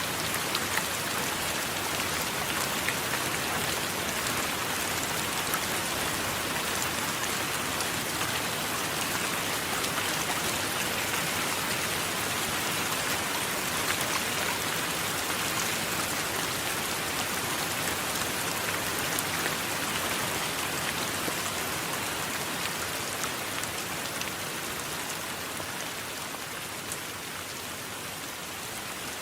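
Steady rain: an even, dense hiss with faint scattered ticks of individual drops, easing slightly near the end.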